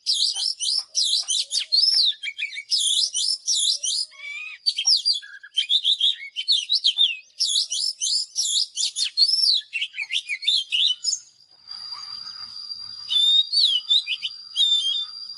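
An oriental magpie-robin singing a rapid, varied song of clear whistled notes and phrases. About 11 seconds in, the recording changes to a steady high-pitched tone with a few more song phrases over it.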